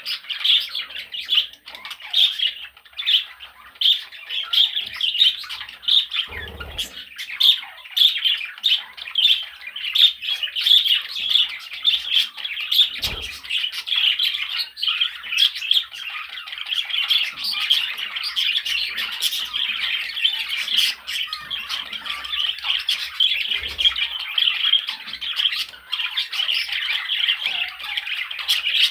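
Budgerigar chattering and warbling non-stop, a dense run of short squawks, clicks and twitters. A few soft low thumps sound under it.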